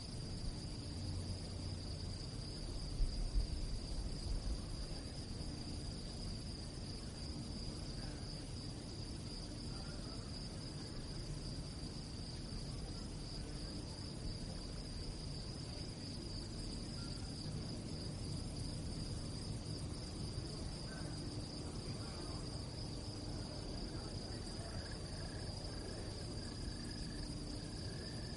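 Crickets chirping in a steady, continuous high-pitched chorus. A low rumble lies underneath and swells briefly about three seconds in.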